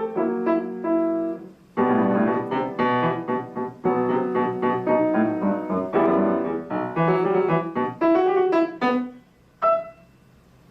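Solo acoustic piano played by a young child: the closing bars of a lively piece, with a brief break about a second and a half in, busy loud passage work, and a final short detached chord near the end, after which only faint room hiss remains.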